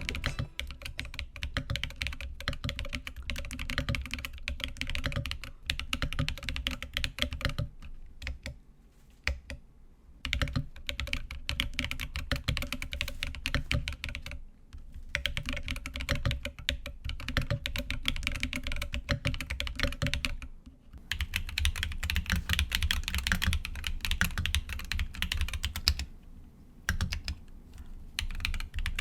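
Typing on a Keychron Q1 Knob aluminium mechanical keyboard fitted throughout with MMD Princess tactile switches: fast runs of keystrokes broken by a few brief pauses.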